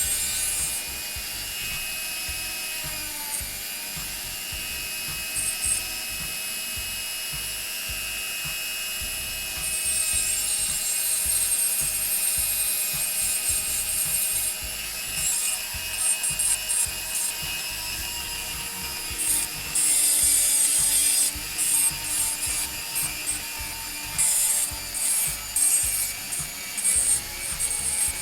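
Dremel rotary tool grinding away the glass around the edge of a smartwatch display: a steady motor whine, with short bursts of grinding that come more often in the second half.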